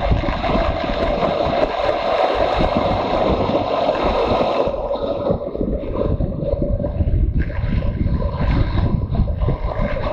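Motorcycle on the move: wind buffeting the microphone over the steadily running engine. The higher part of the engine sound softens about halfway through.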